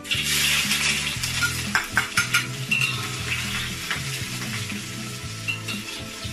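Crushed ginger sizzling as it drops into hot cooking oil in a steel wok, the sizzle strongest at the start and easing off. A metal spatula scrapes and clinks against the wok as it is stirred, with a cluster of clinks about two seconds in.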